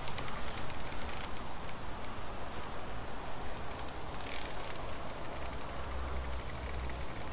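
Fishing reel's drag clicking in rapid runs as a hooked chub pulls line off the spool: a quick string of ticks in the first second, scattered ticks, then another short burst about four seconds in, over the steady rush of the river.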